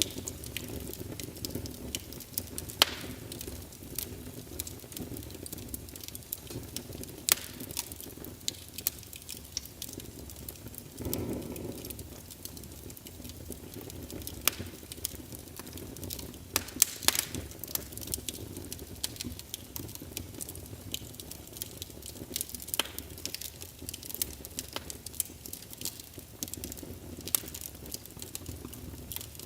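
Wood fire crackling in a fireplace: a steady low rush of flames with irregular sharp pops and snaps, a few of them louder. Around eleven seconds in, the rush briefly swells louder.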